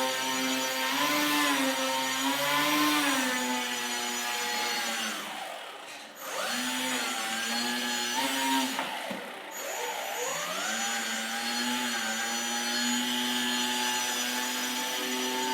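RC rescue boat's motor whining, its pitch rising and falling with the throttle. It is throttled nearly off twice, about six seconds in and again about nine seconds in, and spools back up each time.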